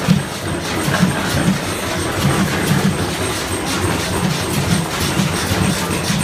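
Antique stationary engines running, with a steady low beat about twice a second and a rapid clatter of short clicks over it.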